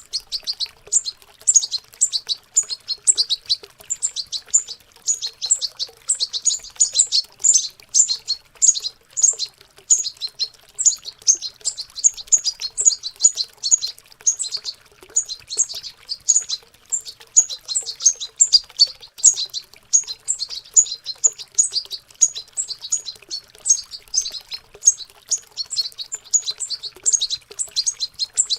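Young European goldfinches babbling their subsong: a fast, unbroken chatter of high twittering notes, with faint running water behind it.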